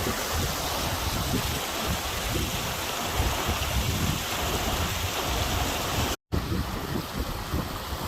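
Steady rushing roar of a waterfall. It drops out for an instant about six seconds in.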